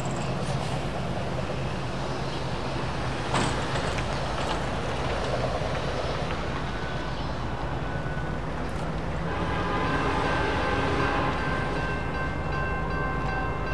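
Train passing: diesel locomotive engines running with a steady low hum and rail noise, with a single sharp knock a few seconds in. About nine seconds in, several steady high tones join and hold to the end.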